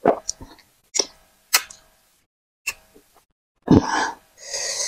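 Close-miked eating sounds: about five short, sharp, wet mouth smacks and clicks of chewing, spaced out over the first three seconds. Near the end come louder, rougher throat and breath noises.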